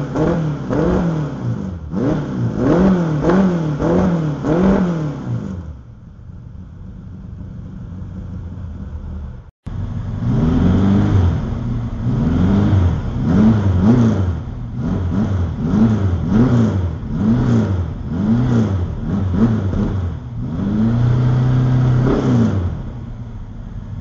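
350 V8 with 180-degree headers and Dr. Gas FreqMod mufflers, revved in quick blips about once a second, the pitch rising and falling with each. It settles to a lower, steadier idle for a few seconds and cuts out abruptly about ten seconds in. Then it is blipped again, with one longer held rev near the end.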